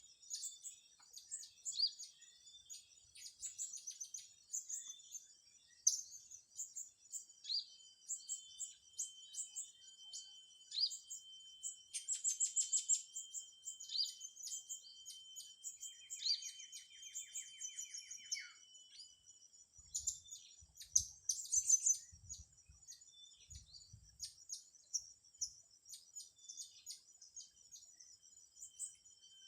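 Small birds chirping in many short, high, thin calls. A steady thin high tone runs beneath for a stretch, and a quick buzzy trill falls in pitch about halfway through.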